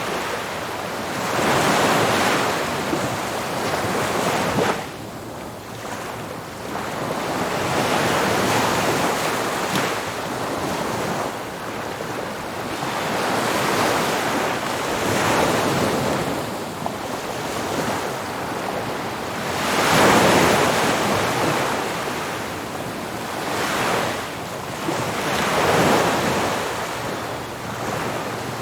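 Ocean surf breaking on a beach: a continuous wash of water noise that swells with each breaking wave every few seconds and falls back between them, the largest wave breaking about twenty seconds in.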